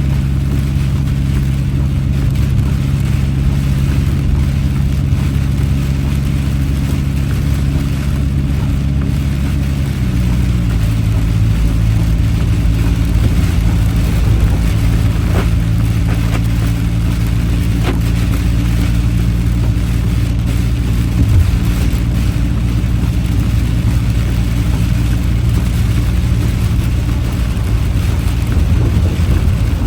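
Car engine and road noise heard inside the cabin while driving: a steady low drone whose pitch shifts down about ten seconds in, then holds steady again.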